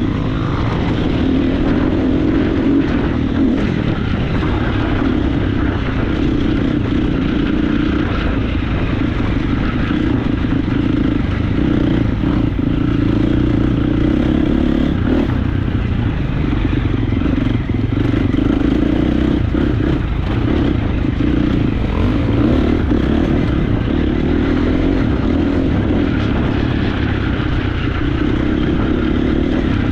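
Motocross bike engine running hard on a dirt track, its pitch rising and falling continuously as the rider works the throttle through the laps.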